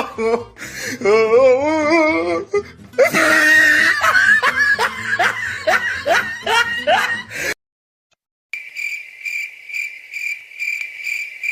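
Edited comedy sound effects: music and laughter with wavering, rising pitched slides, which cut off dead at about seven and a half seconds. After a second of silence, a cricket-chirp sound effect starts and pulses about three times a second.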